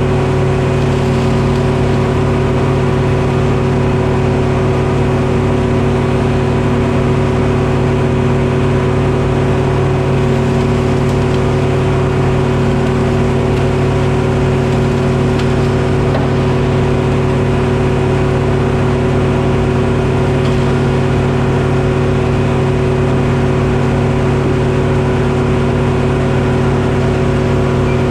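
Detroit Diesel engine powering a Frick sawmill, running steadily at a constant speed.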